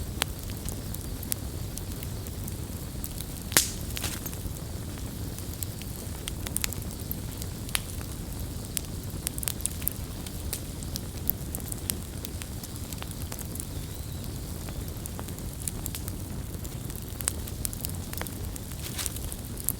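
Campfire burning with a steady low rumble and frequent sharp crackles and pops, one louder pop about three and a half seconds in.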